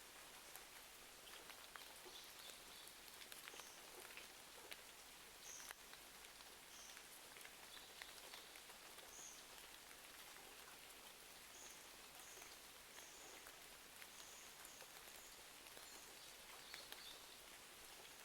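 Faint, steady rain, with small crackles and ticks scattered all through and a few short, high chirps.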